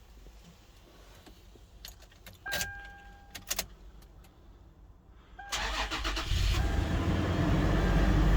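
Clicks and a short steady beep, then about five and a half seconds in a 2016 Toyota 4Runner's 4.0-litre V6 is cranked by the starter, catches within about a second and runs steadily.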